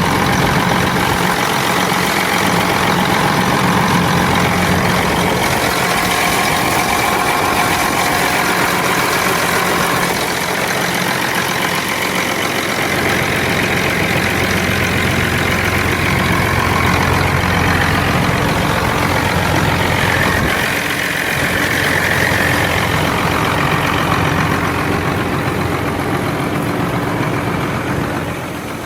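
Large farm machinery engine running steadily, its low drone shifting in pitch a couple of times partway through.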